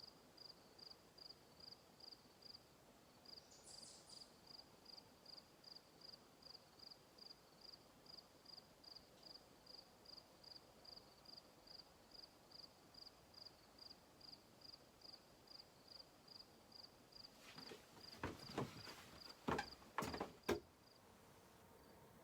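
A cricket chirping steadily in the evening quiet, short high-pitched chirps about two and a half a second. A few sharp knocks near the end.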